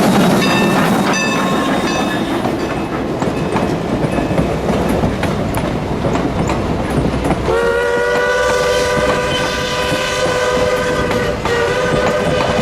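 Norfolk & Western 4-8-0 No. 475 steam locomotive and its train running with a steady rumble and rail clatter, then its steam whistle blowing one long blast from about seven and a half seconds in, with a brief break near the end before it sounds again.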